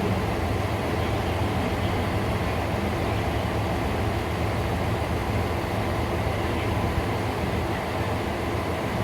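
Kanto Railway KiHa 2400-series diesel railcar running, a steady low engine drone with rail running noise.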